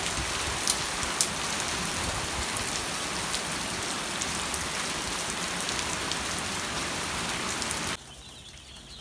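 A steady hiss like heavy rain, with a couple of sharp ticks about a second in, cutting off abruptly near the end. After the cut, broiler chicks peep faintly.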